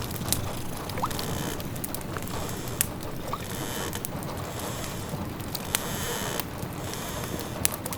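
Layered fireside sound-effect ambience: a wood fire crackling with scattered sharp pops over a steady rain-like hiss, mixed with the wet bubbling of a simmering pot.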